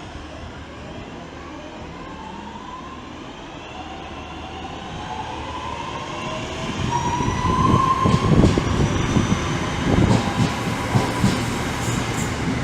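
A train approaching and running close past the platform, growing louder about halfway through, with a whine gliding in pitch and the wheels knocking rhythmically over rail joints.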